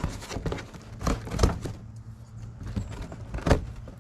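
A shipping package being handled: a few knocks and rustles, the loudest about a second and a half in and again near the end, over a low steady hum.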